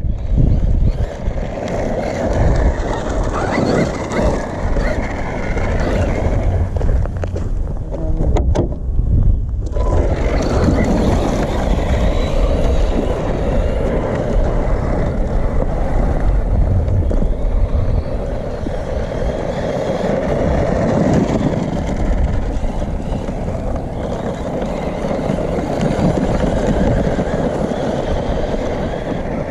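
Losi Baja Rey 1/10-scale 4WD brushless RC truck being driven hard over rough ground: a continuous rough running noise of motor, drivetrain and tyres, with a brief drop-out about eight and a half seconds in.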